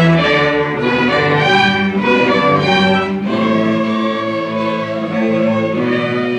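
String orchestra of violins, violas and cellos playing loudly, with quick, shifting notes giving way to long sustained chords with a held bass line after about three seconds.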